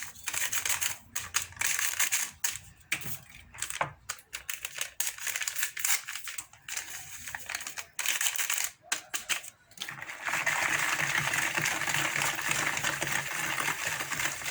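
A utensil clicking and scraping against a mixing bowl as semolina cake batter is stirred, first in short stop-start bursts, then continuously from about ten seconds in.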